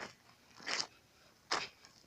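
Footsteps crunching on loose ground, three steps at an even walking pace.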